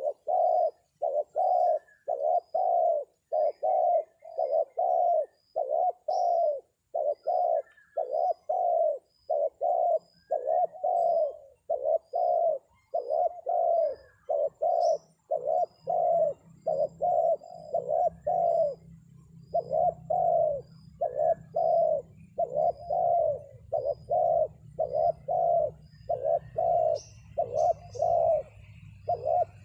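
Spotted dove (terkukur) cooing: an even run of repeated coo notes, about one and a half a second, the lure call used to draw wild doves down to a trap. A low rumble joins about halfway through.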